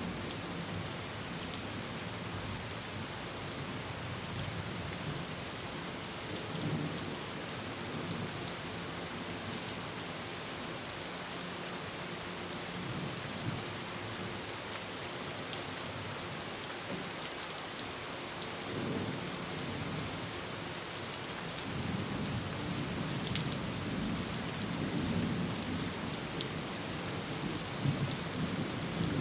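Heavy rain drumming steadily on a tin roof, with low thunder rumbling. The thunder swells briefly twice, then rolls more heavily through the last third.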